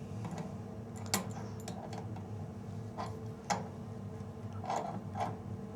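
A handful of irregular small clicks and taps of a wrench on metal as the flange nuts of a gas water heater's burner assembly are tightened, over a steady low hum.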